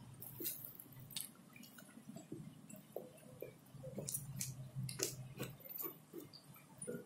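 Close-up wet chewing and lip smacking, with irregular short clicks, as a man eats rice and fried catfish with his fingers, over a faint steady low hum.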